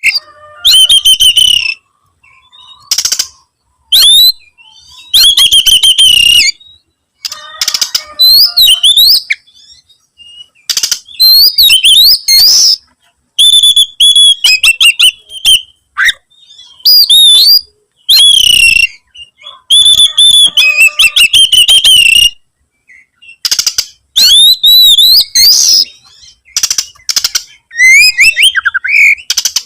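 Oriental magpie-robin (kacer) singing loudly in full song: about a dozen short, varied phrases of clear whistles, gliding notes and rapid trills, with brief pauses between them. Typical of a male singing territorially as if challenging a rival.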